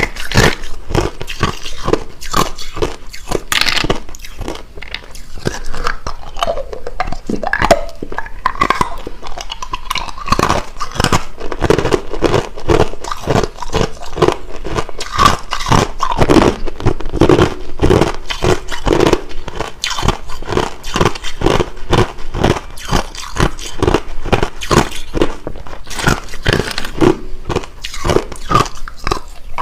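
Hard, clear crushed ice being bitten and chewed close to the microphone: sharp, crackling crunches, a few every second, all the way through.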